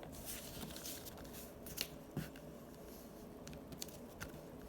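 Faint rustling and a few short crackles of folded printer paper being handled and pressed down into a crease.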